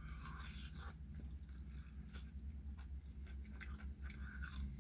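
A person chewing a mouthful of crispy fried chicken ribs, with small scattered crunches, over a faint low steady hum.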